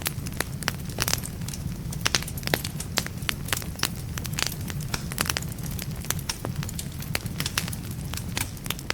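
Wood fire in a fireplace crackling, with many sharp irregular pops and snaps over a steady low rumble of the burning logs.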